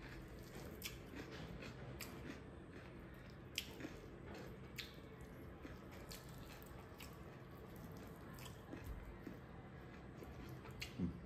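Faint chewing and wet mouth smacks of a person eating rice and smoked pork by hand, with scattered sharp clicks over a low steady hum and a louder smack near the end.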